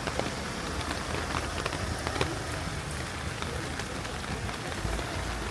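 Steady rain falling on a city street, with many sharp drip and drop ticks scattered through it. A low rumble swells briefly near the end.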